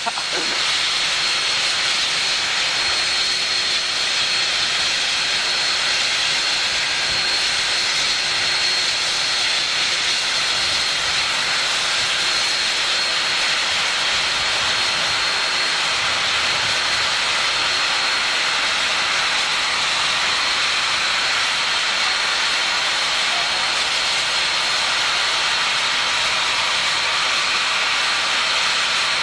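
Union Pacific 3985, a Challenger steam locomotive, venting steam in a steady, unbroken hiss with a thin high ring in it and no exhaust beats.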